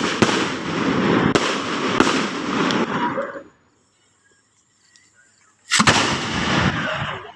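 Noise fireworks (salutes) going off in a rapid, dense run of bangs and crackle. The bangs cut off suddenly about three and a half seconds in, give way to near silence, and start again just as suddenly about six seconds in.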